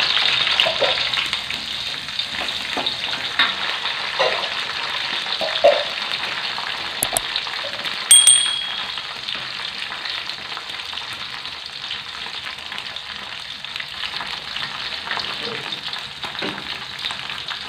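Chilies, tomato, shallots and garlic frying in hot oil in a steel wok, a steady sizzle that slowly dies down, with a few scrapes of a ladle against the wok in the first seconds. A sharp click with a short ringing ding about eight seconds in.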